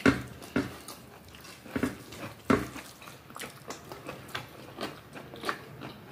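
Close-miked eating sounds: a person chewing a hand-mixed mouthful of rice and vegetables, with short, sharp, irregular mouth clicks and smacks.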